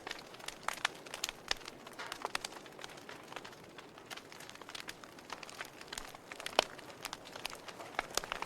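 Campfire burning with irregular crackles and sharp pops over a soft hiss, the loudest pop about six and a half seconds in.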